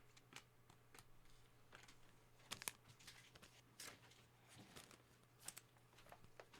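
Faint crinkling and scattered light clicks of trading cards and pack wrappers being handled, a little louder about two and a half seconds in.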